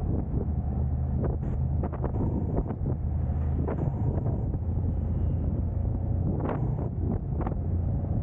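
A car driving, with a steady low rumble of road and wind noise buffeting the camera's microphone and a scatter of short knocks and ticks.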